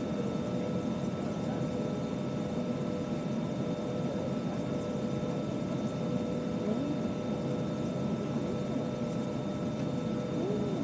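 Steady cabin noise inside a parked Airbus A320: the air-conditioning and ventilation blowing, with a few constant whining tones running through it.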